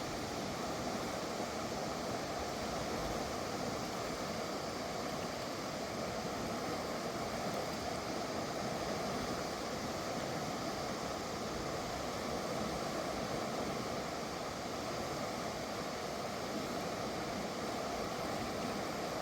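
Mountain river rushing over large rocks: a steady, unbroken roar of whitewater.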